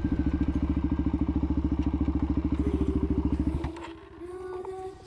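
Motorcycle engine running at a steady low speed with a rapid, even pulse, then cutting off suddenly a little over three seconds in.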